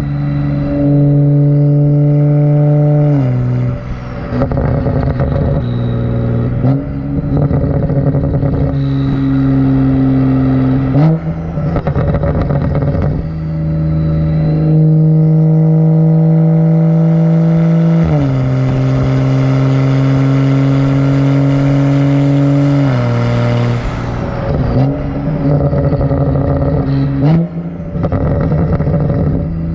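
BMW 135i's turbocharged N55 straight-six running through a catless downpipe with the muffler deleted, under way at fairly steady engine speed. The engine note drops sharply several times and climbs back, with a slow rise in pitch in the middle.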